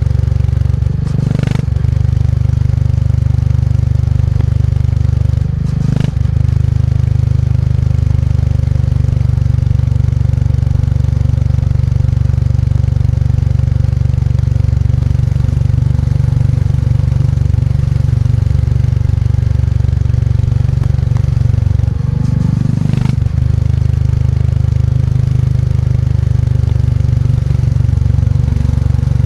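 Motorcycle engine running steadily while riding, its low thump close to the microphone, with three brief breaks in the engine note: about a second in, at about six seconds and again around twenty-three seconds.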